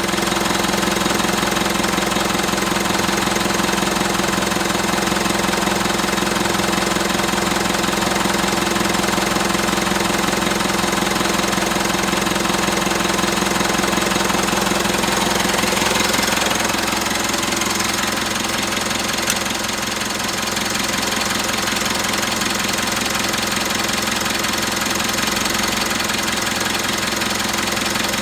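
Mitsubishi Triton's 2.4-litre four-cylinder engine idling steadily. About sixteen seconds in, the idle changes and settles a little quieter, with a single click a few seconds later.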